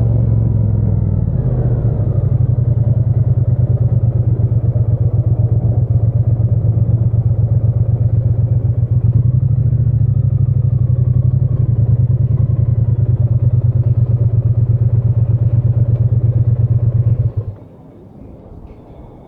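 Triumph Bonneville T120 parallel-twin engine running at a steady low speed with an even, fast pulse, then stopping abruptly near the end, leaving only faint background noise.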